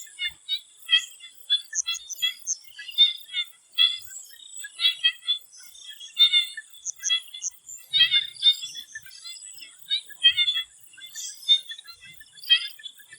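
A chorus of swamp frogs calling in short, quickly repeated notes, several a second and overlapping, over a steady high-pitched whine.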